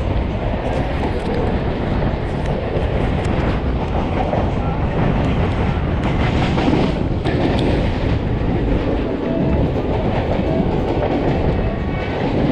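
A train running at speed: a steady rumble of wheels on rails, with scattered clicks as the wheels cross rail joints.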